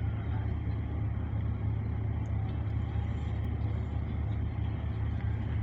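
Steady low engine rumble of a ferry under way, an even drone with no change in pitch or level.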